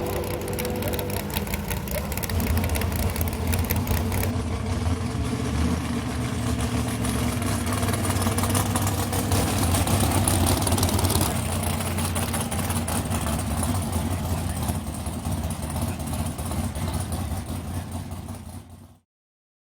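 Vintage drag-racing car engine running steadily, cutting off abruptly near the end.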